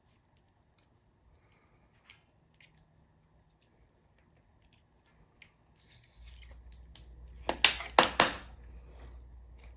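Pipe cutter snipping through a chicken thigh's knuckle joint: a few faint clicks, then three sharp crunching cuts in quick succession near the end. A low steady hum comes in shortly before the cuts.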